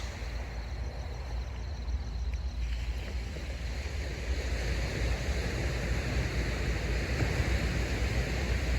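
Steady outdoor noise of wind and a low rumble, slowly growing louder as a freight train approaches from a distance.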